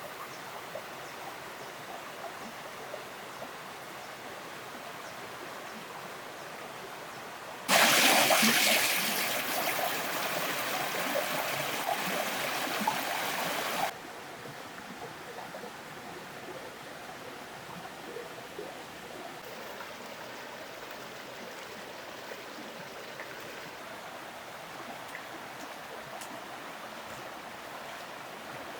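Water running steadily, with a much stronger rush of water for about six seconds near the middle that starts and stops abruptly.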